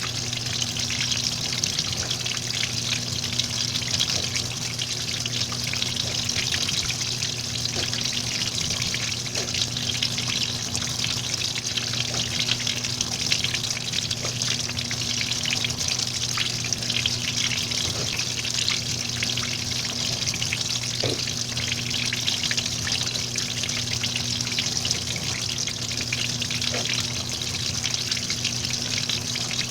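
Washing machine filling with water: a steady rush of water with a steady low hum underneath and a few faint ticks.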